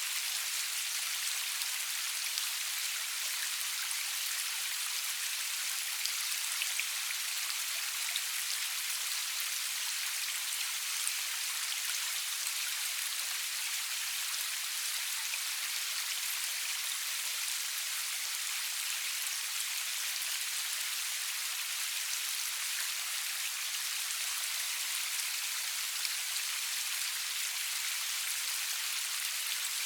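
Steady rain falling, an even bright hiss with little low rumble and scattered sharper drop ticks.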